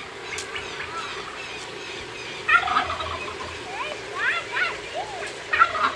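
Chicken squawking in short bursts of calls, the loudest about two and a half seconds in, again around four seconds and near the end, as it is chased.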